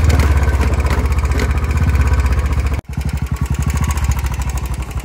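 Royal Enfield motorcycle engine running with an even low thumping beat; a sudden break a little before three seconds in, after which the thumps come more separately, as at low revs.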